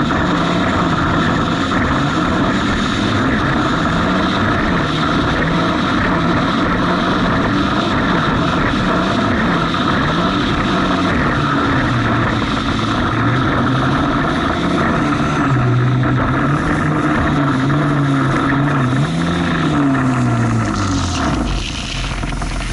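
Jet ski engine running under way, its pitch rising and falling over and over as the throttle changes, then dropping low near the end as it slows.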